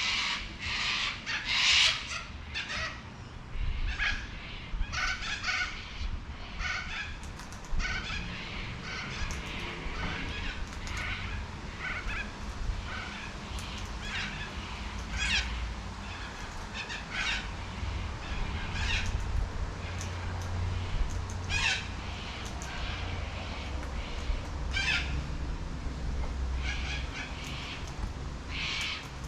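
Wild cockatoo giving a long run of short, harsh calls, loudest and most crowded in the first couple of seconds, over a low steady rumble.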